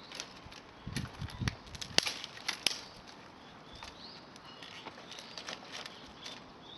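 Sharp cracks and knocks of wood at a campfire, about six in the first three seconds, loudest about two seconds in; a few faint bird chirps follow.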